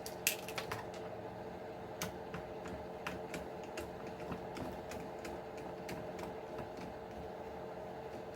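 Irregular small clicks and taps of plastic parts being handled as the receiver box on an RC truck is opened, the sharpest one about a quarter second in, over a steady background hum.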